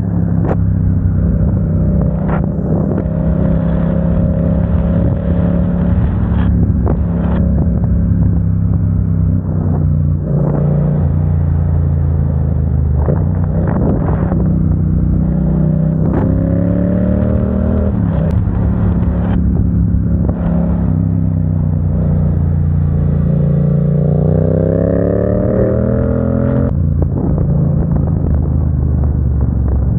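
A vehicle's engine under way, heard on board. It runs steadily, and the revs climb three times and drop off sharply after each climb, as when shifting up through the gears.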